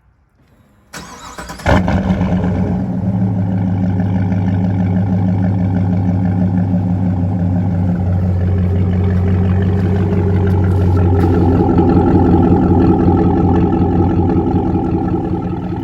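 Chevrolet Silverado's 6.2-litre V8 cold-started by remote start, heard through a Corsa Sport cat-back exhaust: a moment of starter cranking, the engine catches with a loud flare about a second and a half in, then settles into a steady idle.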